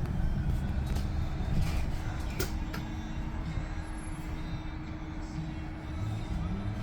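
City bus running with a low, steady engine rumble and a faint steady hum that comes in about two and a half seconds in.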